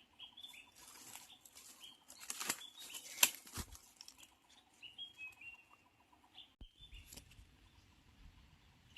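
Rustling and crackling of dry bamboo leaves and undergrowth, with a sharp snap about three seconds in. Short high bird chirps come several times.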